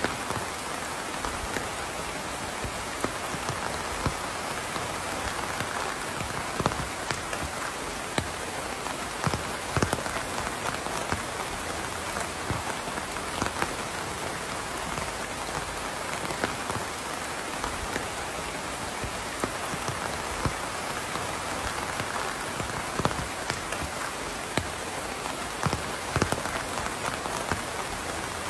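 Steady rain falling, an even hiss of rain with many sharp single drops hitting close by.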